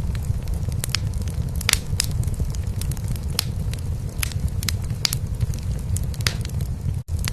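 Wood fire crackling in a fireplace with scattered sharp pops, over a steady low purring of a cat. The sound cuts out for an instant near the end.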